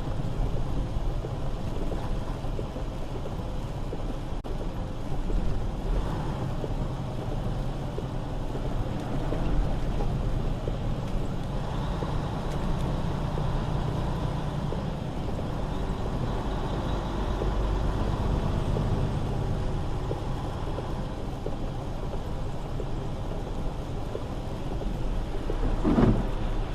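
Semi truck driving, a steady low rumble of engine and road noise, with one brief louder sound near the end.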